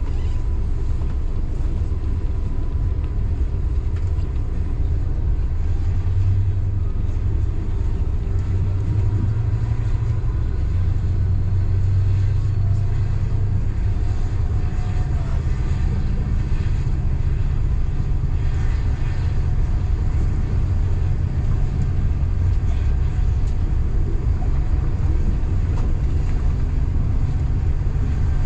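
Local passenger train running along the line: a steady low rumble of the train in motion, with a low drone that brightens and shifts slightly in pitch midway.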